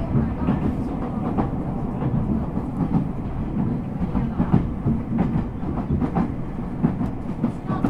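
Ueda Electric Railway 1000 series electric train running steadily between stations, heard from inside the passenger car: a continuous low rumble of wheels on rail with irregular clicks and clatter from the track.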